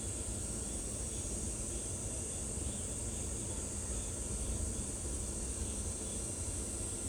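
Steady, high-pitched insect chorus over a continuous low rumble, unchanging throughout.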